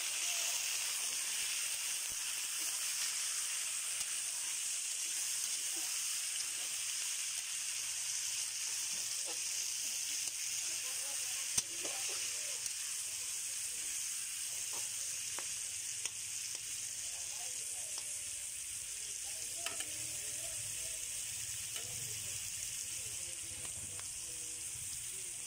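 Raw chicken pieces sizzling in hot oil in a metal pan, a steady even hiss. A few light clicks and one sharp knock near the middle come as the pieces are moved in the pan.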